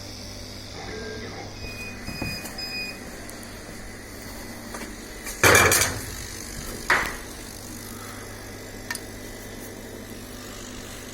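Laser cutting machine running with a steady hum, with three short beeps about two seconds in. Two loud knocks or clatters come just past the middle, about a second and a half apart.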